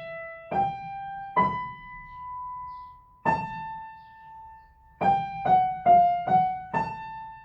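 Piano playing a slow single-note right-hand melody: a few notes, some held, then about five seconds in a quick run of four notes moving by semitones (G, F sharp, F natural, F sharp), ending on a held note.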